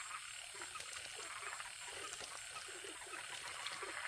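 Frogs croaking faintly: a run of short, low calls repeating about two or three times a second.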